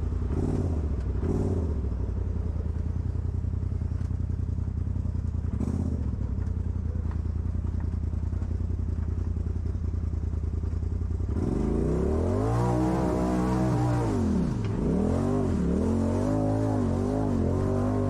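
Off-road vehicle engine idling steadily, then about eleven seconds in it is revved up and down several times, its pitch repeatedly rising and falling.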